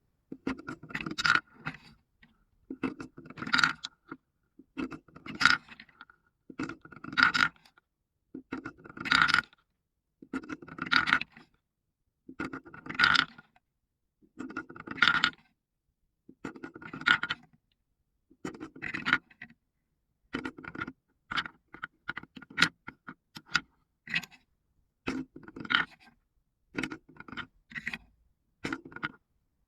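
Marbles rolling and rattling down a marble run track, in repeated bursts about every two seconds, each lasting about a second, with short clicks mixed into the later ones.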